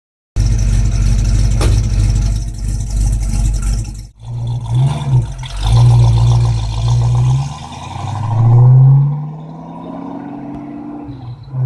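A 1967 Ford Mustang Fastback GT's 289 V8 with a four-barrel carburetor and a mildly aggressive cam, running with a deep, steady rumble. After a sudden break about four seconds in, the engine revs up in three rising pulls, then drops away and fades as the car drives off.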